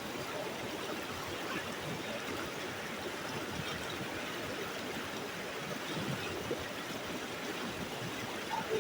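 Mountain stream running steadily: a continuous rush of flowing water.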